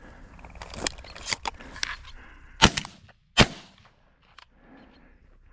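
Two 20-gauge shotgun shots about three-quarters of a second apart, each a sharp crack with a short tail, fired at flushing Hungarian partridge. They are preceded by lighter clicks and rustling.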